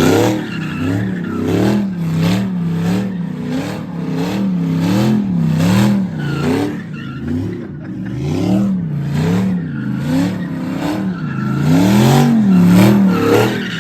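Truck engine revved up and down over and over, its pitch rising and falling about once a second.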